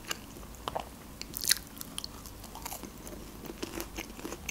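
Close-up eating sounds: a person chewing a pastry roll, with scattered wet mouth smacks and small crunches, the loudest about a second and a half in.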